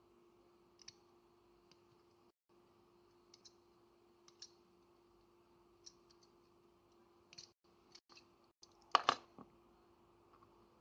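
Small sharp clicks and taps of tools on a phone's plastic and metal parts as it is pried apart during disassembly, scattered every second or so, with a louder clatter about nine seconds in. A faint steady hum runs underneath.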